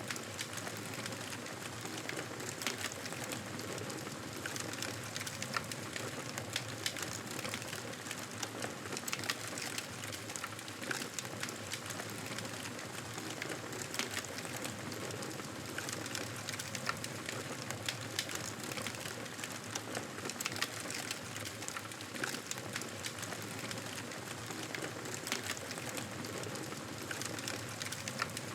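Campfire burning: wood crackling with frequent sharp pops over a steady hiss.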